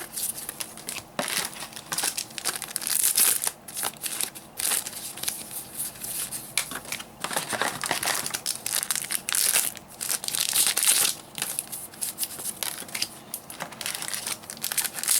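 Foil booster-pack wrappers crinkling and tearing as trading-card packs are ripped open one after another, an uneven run of crackly rustles with louder rushes every few seconds.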